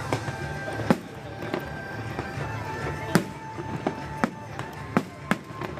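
Aerial fireworks bursting: a run of about seven sharp bangs at uneven intervals, the loudest about three seconds in, over background music.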